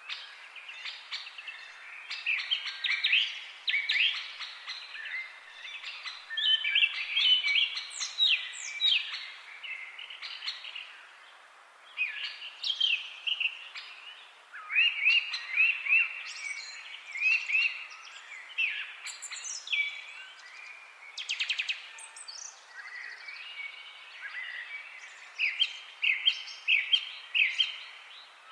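Several songbirds chirping and singing, with short notes and quick trills overlapping over a faint background hiss.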